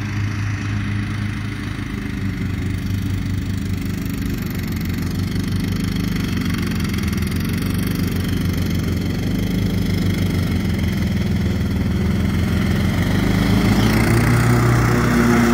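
Cub Cadet LT42 riding lawn mower's engine running steadily, growing louder towards the end.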